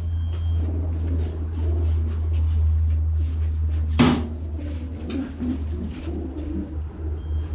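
Racing pigeons cooing and shuffling in crowded baskets, with scattered small scrapes and wing flicks. A single sharp clack comes about four seconds in.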